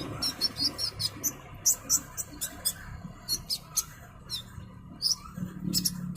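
Konin songbird giving a rapid, irregular series of short, sharp high-pitched chirps, some in quick pairs, over a faint low hum.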